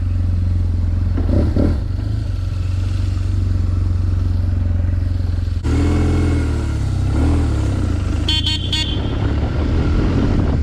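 BMW R1200 GS boxer-twin engine running under way, its pitch rising and falling as it is revved from about halfway through. About eight seconds in, a horn gives a few quick high toots.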